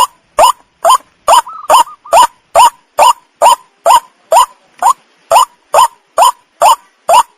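White-breasted waterhen (ruak-ruak) lure call: a short rising 'kru-ak' note repeated over and over, about twice a second, strictly evenly spaced as in a looped recording used to lure the birds.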